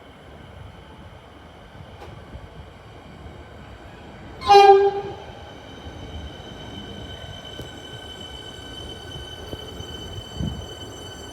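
Suburban electric train sounding one short horn blast about four and a half seconds in. Steady high tones from the train follow and last to the end.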